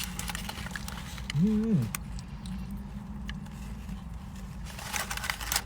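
A single short hummed voice sound, rising then falling in pitch, about a second and a half in, over a steady low hum. Faint clicks and smacks of eating are scattered throughout.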